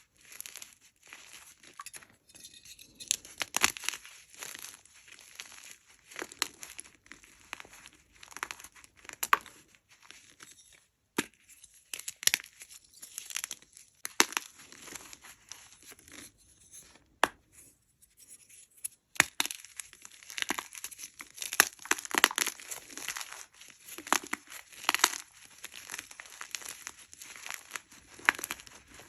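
Blocks of hard gym chalk being crushed and crumbled by hand close to the microphone: irregular sharp crunches and crackles with crumbly powder sounds in between, busier in the second half.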